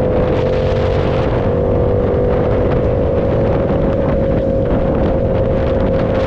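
Motorcycle engine running at a steady, high pitch while cruising, with wind rushing over the microphone.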